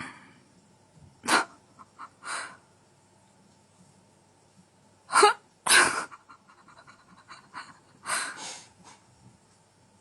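Short breathy hissing bursts from an animal, about six in all, coming in pairs roughly every three seconds.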